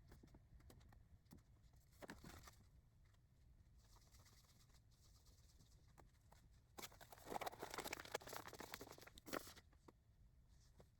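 Faint rustling and handling noise as skeins of yarn are pulled from a storage tote and sorted, louder for a couple of seconds about seven seconds in.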